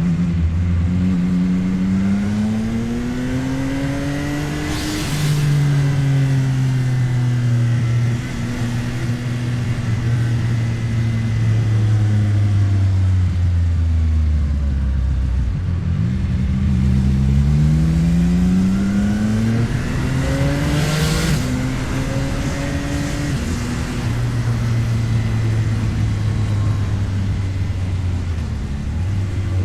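CFMOTO 675NK's 675 cc inline-three engine pulling a motorcycle up through the revs twice, each time dropping in pitch at a gear change, with a stretch of steady cruising between and the engine falling off around the middle. A short rush of noise comes at each rev peak, about five seconds in and again near twenty-one seconds.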